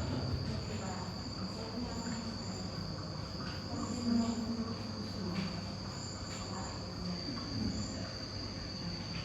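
Steady high-pitched cricket-like trilling, with short higher chirps now and then, over a low background murmur.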